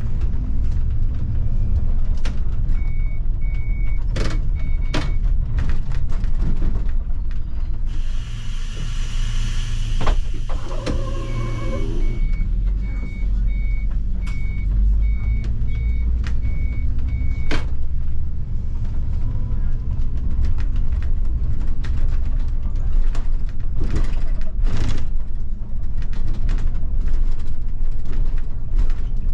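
City bus running, heard from the driver's cab: a steady low engine and road rumble with scattered rattles and knocks. A repeated high beep sounds in two runs, and a loud hiss of compressed air lasts about four seconds midway.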